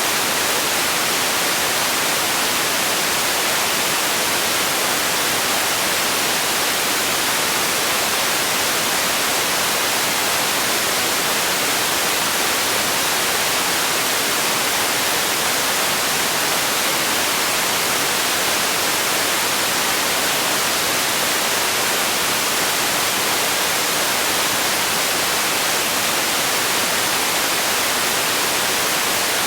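Steady synthetic noise played for relaxation and sleep: an even, bright hiss that does not change.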